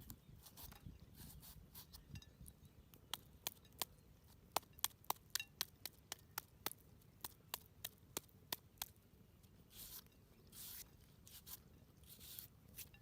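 A run of sharp, irregular clicks and taps, several a second, followed near the end by a few short scraping rustles.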